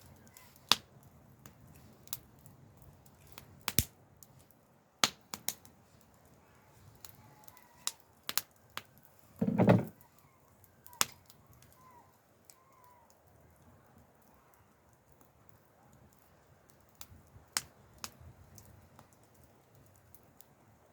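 Wood fire crackling: scattered sharp pops a second or a few apart, with a louder, duller knock about ten seconds in.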